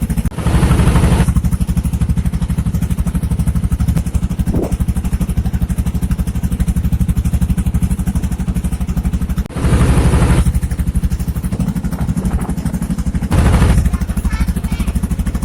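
Small riverboat's engine running steadily with a fast, even chug. Three louder rushes of noise come over it: one at the start, one about ten seconds in and one shortly after.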